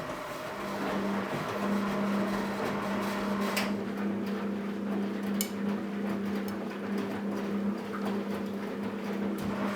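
Philco Bendix W84RX washing machine running its wash cycle with a steady hum that sets in just after the start, and a couple of sharp clicks about three and a half and five and a half seconds in.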